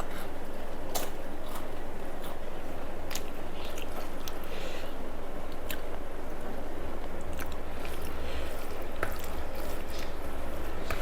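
A person chewing a rice meal close to the microphone, with scattered small mouth clicks and smacks, over a steady low background hum.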